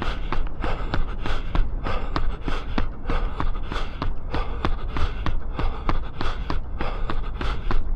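A runner's footsteps striking at a steady running cadence of about three steps a second, with the runner's heavy breathing and a constant low rumble of wind and movement on the body-worn microphone.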